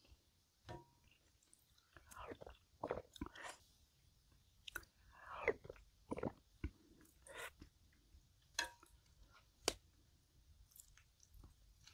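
A person chewing food close to the microphone: irregular wet smacks and mouth clicks, with a few sharper crunchy bites.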